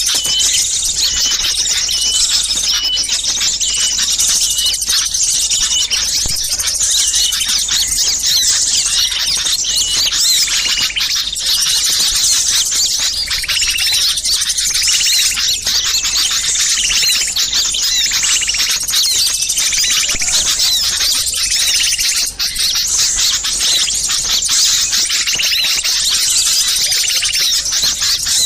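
Dense, continuous chorus of many small songbirds chattering and calling noisily over one another, a mixed small-bird lure call (suara pikat). A short note repeats about twice a second in the first few seconds.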